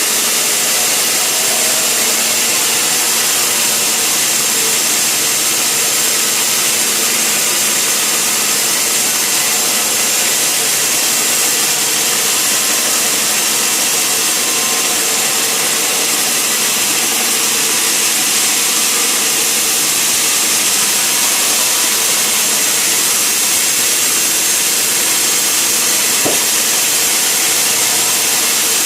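Sawmill saw cutting through timber, a loud, steady, high-pitched noise that holds evenly throughout, with a single brief click about 26 seconds in.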